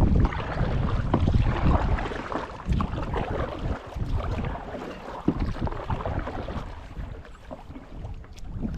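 Wind buffeting the microphone, heaviest in the first couple of seconds, over water splashing from kayak paddle strokes.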